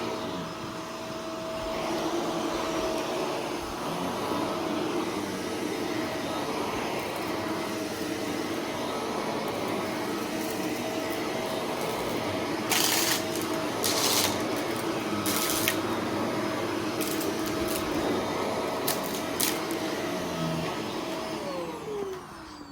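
Shark vacuum cleaner running steadily, sucking up confetti and glitter, with a few sharp crackles of debris going up the hose. Near the end the motor is switched off and its pitch falls as it spins down.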